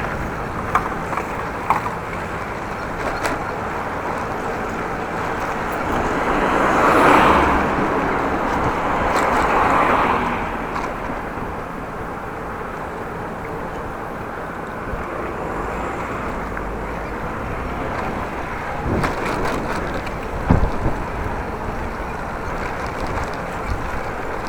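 Wind and rolling noise while riding a bicycle in strong wind, a steady rush with two louder swells about a third of the way in. A few sharp clicks and knocks from the bike over bumps.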